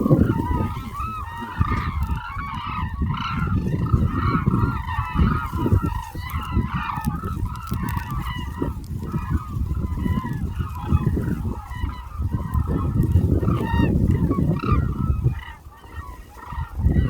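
A large flock of hooded cranes calling continuously in many short, overlapping calls, over a low rumble of wind on the microphone. The calling thins briefly near the end.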